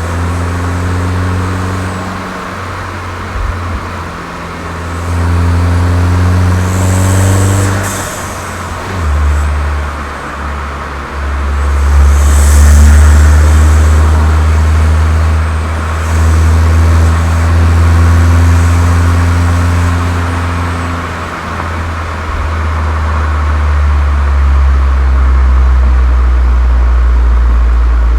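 Volkswagen Golf 7 GTI's turbocharged 2.0-litre four-cylinder engine and aftermarket Cox exhaust pulling under load. Its pitch climbs over several seconds and drops back sharply at a gear change about eight seconds in, then climbs again through a long pull.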